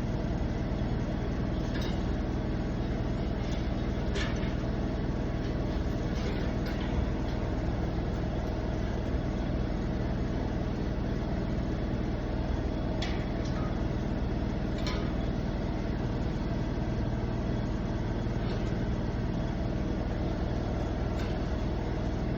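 An engine running steadily at a constant speed, with a few brief, sharp metallic clicks or taps scattered over it.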